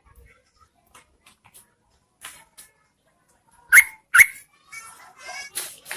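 Yellow-vented bulbul calling: a few faint notes, then two loud sharp calls close together about four seconds in, followed by a short run of softer chattering notes.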